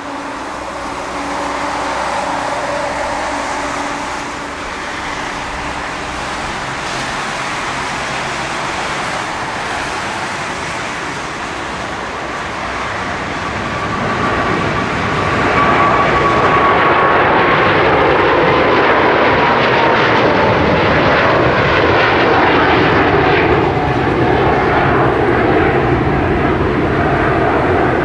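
Boeing 777-300ER's twin GE90-115B turbofans at takeoff power. The sound grows louder about halfway through as the jet passes, and a high whine slowly falls in pitch.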